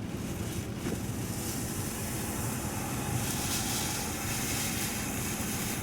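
Steady rumble of strong hurricane wind buffeting a moving car, mixed with road and engine noise, with wind noise on the microphone.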